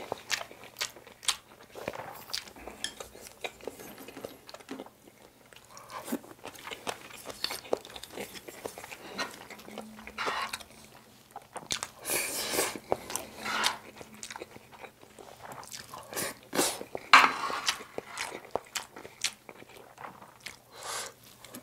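Close-miked eating sounds: chewing soy sauce egg rice with wet mouth noises, mixed with a spoon scraping and knocking on the griddle pan as rice is scooped up. Several louder bursts come in the second half.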